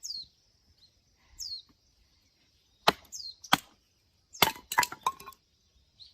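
Firewood being split by hand: six sharp chopping strikes into wood, two about halfway through and a quicker group of four near the end, the later ones with a brief ringing tone. A bird gives a short falling chirp three times.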